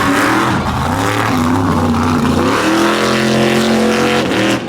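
Mega truck engine revving hard, its pitch wavering, then climbing about halfway through and holding high before dropping off near the end.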